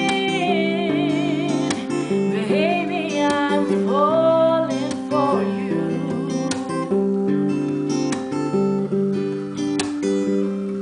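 Acoustic guitar strumming the chords of a slow ballad, with a wordless sung line wavering over it in the first few seconds.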